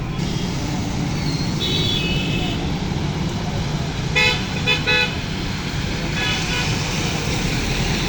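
Road traffic running steadily, broken by several vehicle horn toots: a short one about two seconds in, two louder ones around four to five seconds in, and another after six seconds.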